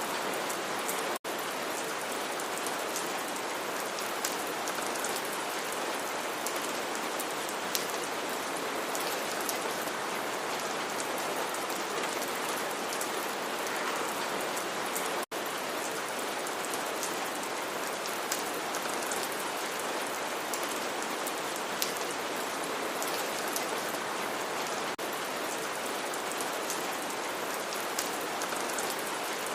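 Steady rain falling, an even hiss with scattered sharp drop ticks. The sound cuts out for an instant twice, about a second in and about halfway through.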